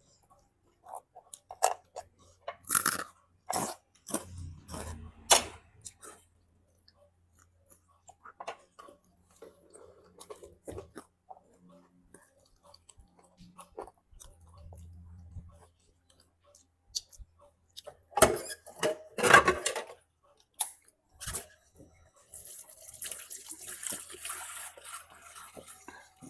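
A person chewing crunchy food, with irregular sharp crunches that come in clusters. Near the end a steady hiss comes in.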